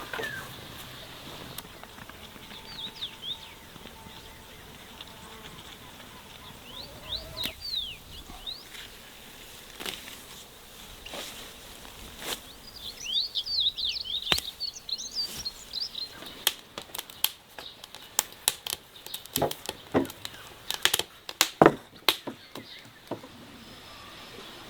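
Small birds chirping in short clusters of quick high notes, among scattered sharp clicks and knocks in the second half.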